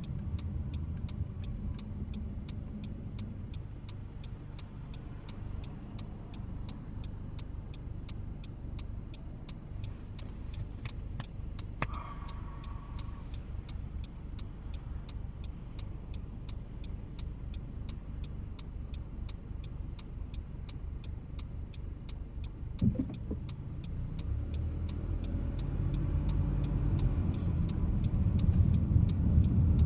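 Car engine idling, heard from inside the cabin, with a faint regular ticking over it. Over the last few seconds the engine grows louder as the car pulls away.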